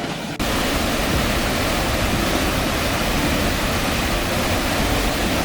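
Steady rush of a waterfall, cutting in abruptly about half a second in as music ends.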